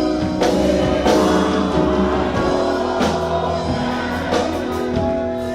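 Live worship band playing a slow gospel song, with held organ or keyboard chords, guitar and drums keeping a steady beat.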